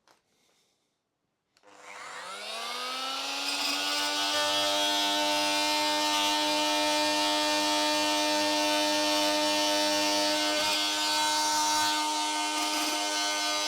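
An electric power tool starting up about two seconds in, its motor whine rising in pitch and then running steadily while cutting off small tabs.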